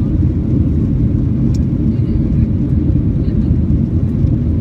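Steady low rumble of a Boeing 737-800's CFM56-7B jet engines and airflow, heard inside the passenger cabin during the climb after takeoff.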